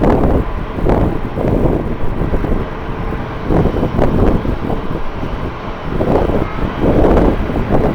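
Strong, gusty wind buffeting the microphone, with the faint steady whine of a distant jet airliner's engines underneath.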